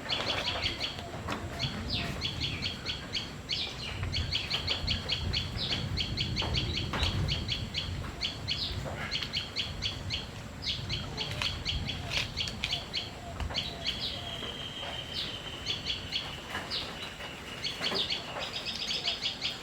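Small birds chirping in rapid trills that repeat over and over, with one thin note held for a couple of seconds about two-thirds of the way in.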